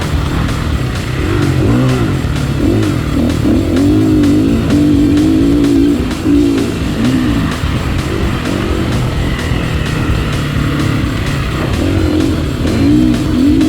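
Dirt bike engine revving up and down repeatedly as the throttle is opened and closed and the gears change around a track.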